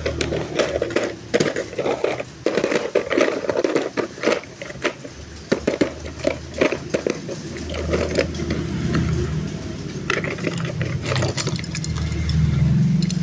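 Toy packaging and diecast toys being handled and opened by hand: a dense run of clicks, taps and scrapes over a low steady hum, with a low rumble from about two-thirds of the way in.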